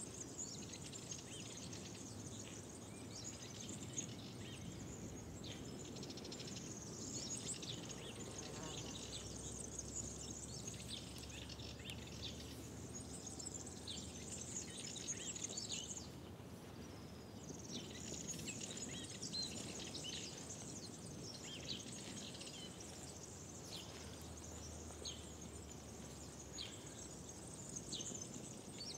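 Spring woodland ambience: small birds singing in many short, high chirps, with a steady high insect buzz and a faint low rumble underneath.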